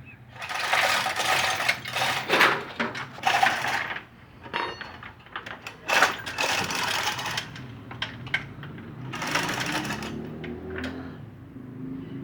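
Chain hoist being worked, its metal chain rattling and clicking in three bursts as the engine is lowered.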